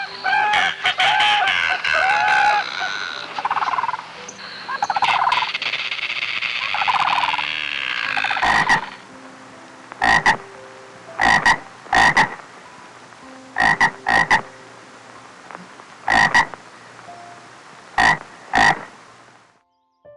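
Frogs croaking: a dense chorus of overlapping calls for the first half, then single short croaks, often two close together, a second or two apart.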